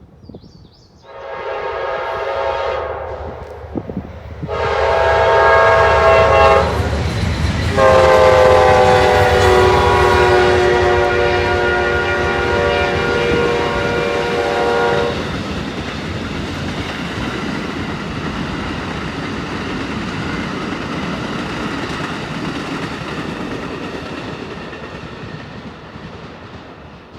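Diesel locomotive air horn sounding three blasts, two shorter ones and then one held about seven seconds, over the rumble of the train running on the rails. The rumble fades gradually after the horn stops.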